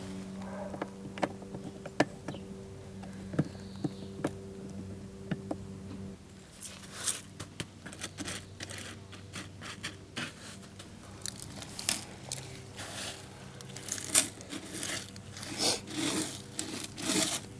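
Scraping, rustling and clicking handling noises. For about the first six seconds there are only a few sharp clicks over a steady low hum; after that the scrapes and clicks come thick and irregular.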